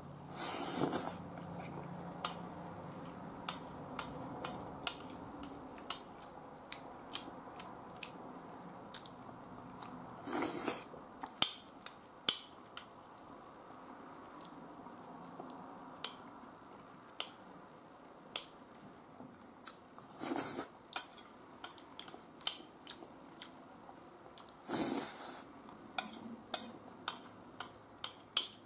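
A man chewing a mouthful of meatball curry and rice close to the microphone, with scattered sharp clicks and taps and a few short louder bursts of noise.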